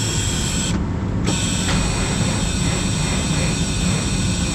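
Steady running machine noise: a constant low hum with a thin high whine over it. The whine briefly drops out about a second in.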